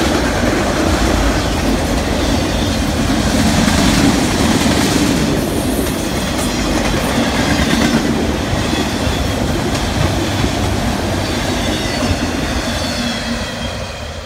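Freight train of autorack cars rolling past on the adjacent track: a steady, loud rolling noise of steel wheels on the rails that fades over the last couple of seconds.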